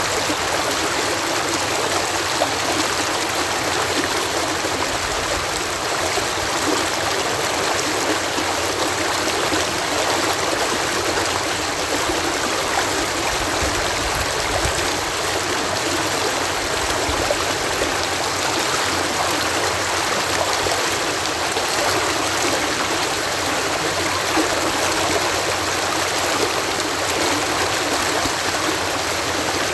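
Water cascading through a canal lock: a steady, even rush of falling water.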